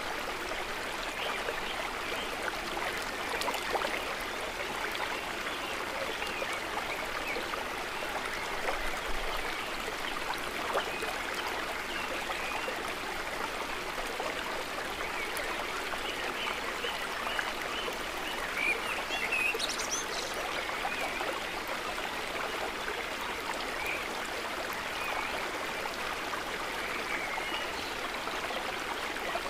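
Steady, gentle trickling of water, with small babbling sounds.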